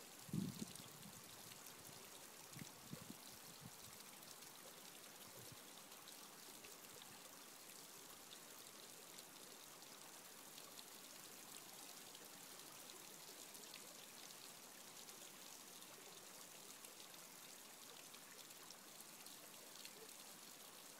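Shallow mountain brook babbling steadily, a faint even rush of water. A few short low thumps in the first few seconds.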